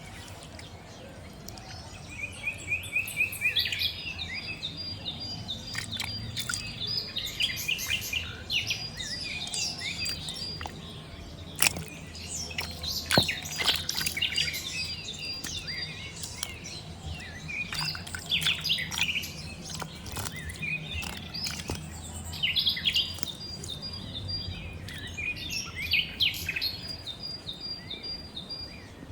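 Several birds chirping and calling in quick, overlapping bursts of short notes and trills, over a faint steady low hum.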